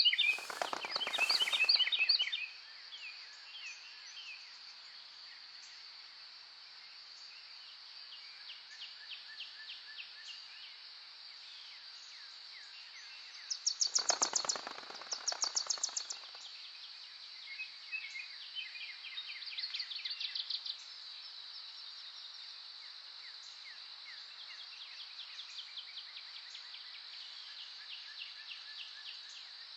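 Songbirds singing in rapid repeated trills, two loud bursts near the start and midway with fainter calls between, over a steady high-pitched drone.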